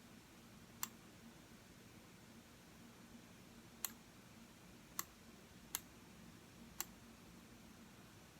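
Five single computer mouse clicks at uneven intervals over a faint steady room hum.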